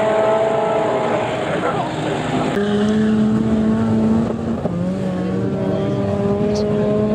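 VW Beetle drag cars' air-cooled flat-four engines idling at the start line with a steady pitched drone. The tone changes abruptly a couple of seconds in and dips slightly in pitch about two seconds later.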